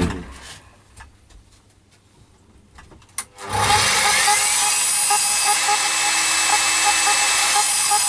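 A few clicks of handling, then about three and a half seconds in an electric mitre saw starts up. Its whine rises as the motor spins up, then it runs steadily while cutting a wooden board.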